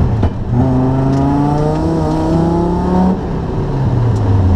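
Rally car engine heard from inside the cabin under hard acceleration: after a short dip at the start, the revs climb steadily for about three seconds, then drop about three seconds in and run on at a lower pitch.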